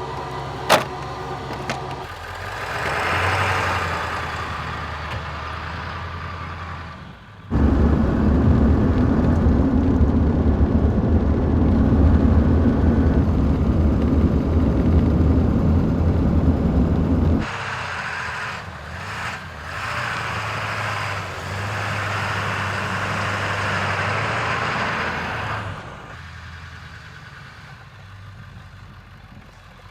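Diesel pickup truck engine running. It turns much louder and deeper for about ten seconds in the middle, then settles to a lower, steady level with a low hum and drops quieter near the end.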